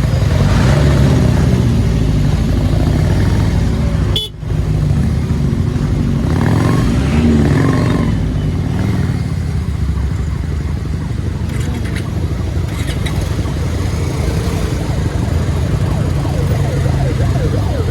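Motorcycle riding along a highway: the engine and road noise make a steady low rumble with traffic around. The sound drops out briefly about four seconds in.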